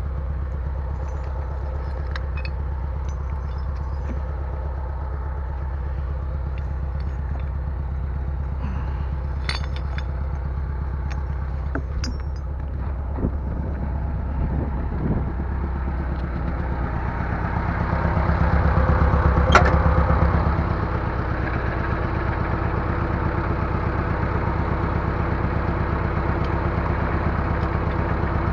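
Bulldozer engine running steadily, with a few metallic clanks partway through; a little past halfway the engine is throttled up and pulls harder for a few seconds, with a sharp clank at its peak, then settles to a steady higher-speed run.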